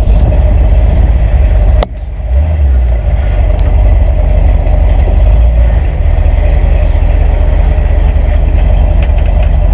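Motor vehicle engine running with a steady, heavy low rumble, briefly dropping about two seconds in.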